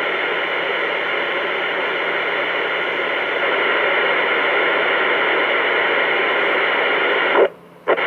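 Two-way radio speaker putting out loud, steady static hiss from an open channel with no voice on it, cutting off abruptly near the end, followed by a brief burst of hiss.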